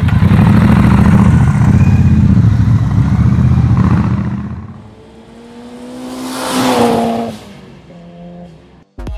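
Loud motorcycle engine sound effect, running hard at high revs, fading away about four and a half seconds in. Then a whoosh that swells and dies away with a falling pitch, like a fast pass-by, near the end.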